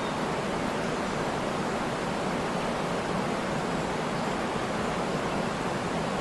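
Waterfall: a steady, unbroken rush of falling water, full and deep.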